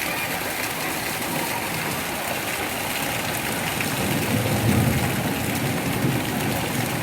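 Heavy rain falling as a steady hiss, with a low rumble building about four seconds in.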